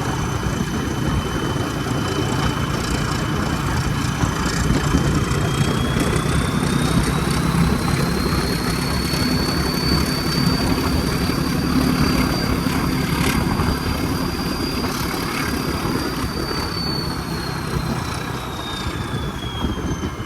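Diesel locomotive engine running steadily with a deep hum. A high whine climbs about a third of the way in, holds, then sinks again near the end.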